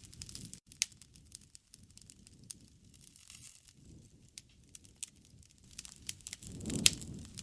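Wood campfire crackling, with irregular sharp pops and snaps. Near the end a low rush swells up with one loud pop.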